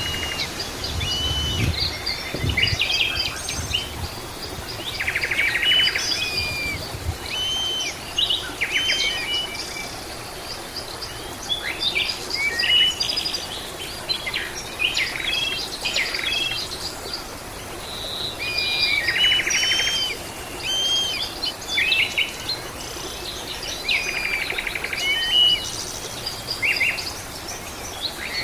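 Several birds calling and singing together: short chirps, slurred whistles and now and then a buzzy trill, overlapping without pause. A brief low rumble sounds in the first few seconds.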